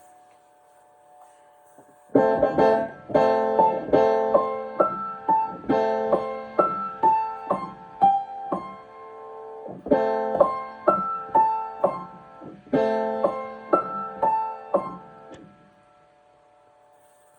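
Piano being practised: a passage of struck chords and melody notes played in short phrases, starting about two seconds in and stopping a couple of seconds before the end, the last notes ringing away.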